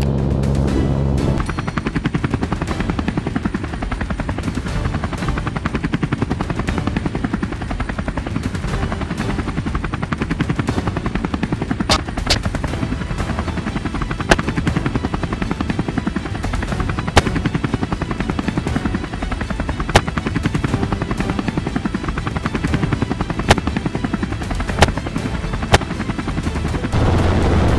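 Helicopter running with a rapid, steady blade chop, and seven single rifle shots fired from it, a second to a few seconds apart, starting about twelve seconds in. Music plays briefly at the start and comes back near the end.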